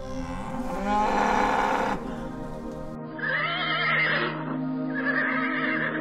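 Animal calls over steady background music: a louder, rougher cry about a second in, then two wavering, high-pitched calls about three and five seconds in.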